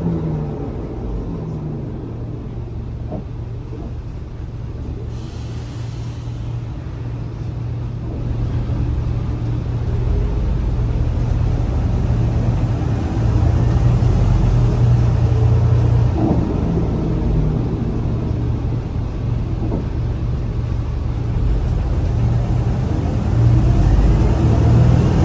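Scania L94UA bus's diesel engine running under way: a low rumble that grows louder and eases off as the bus drives, with a brief hiss about five seconds in.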